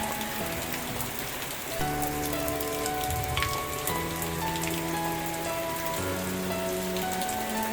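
Steady rain falling, with many separate drops ticking over an even hiss. Under it, soft background music of held chords that change about every two seconds.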